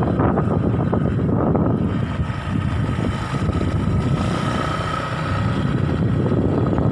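Strong wind buffeting the microphone: a steady, dense low rumble.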